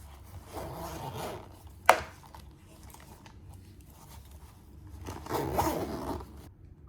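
Desk handling sounds: two rustling scrapes of about a second each, with a single sharp click about two seconds in.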